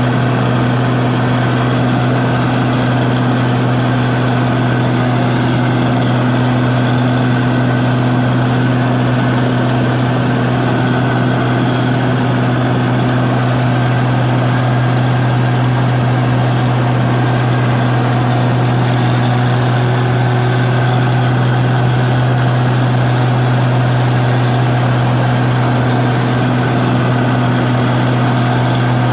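New Holland 8060 combine harvester running steadily with a strong, even low hum and machinery noise, holding at one speed throughout.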